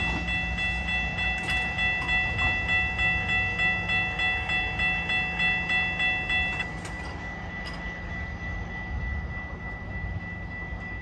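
A GO Transit commuter train creeping over a level crossing with a low rumble. The crossing signal's bell pulses about twice a second and stops about two-thirds of the way through, leaving one steady high tone.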